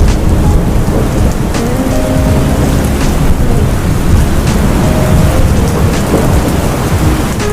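Steady heavy rain with a deep, continuous thunder rumble underneath.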